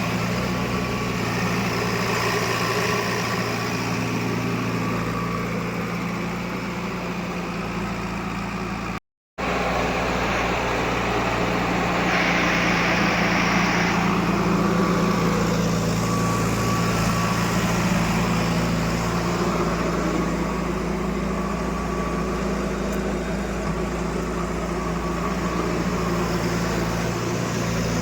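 Heavy diesel engine of a backhoe loader or tractor running steadily, with a brief break in the sound about nine seconds in.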